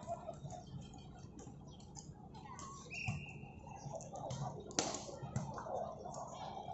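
Sounds of a ball game in play: scattered short squeaks and clicks over a low murmur of voices, a brief high squeak about three seconds in, and a sharp smack of the ball near the five-second mark.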